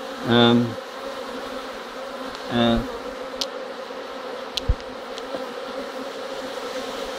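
Honeybees buzzing at an open hive: a steady, even hum. A single low knock sounds a little past the middle.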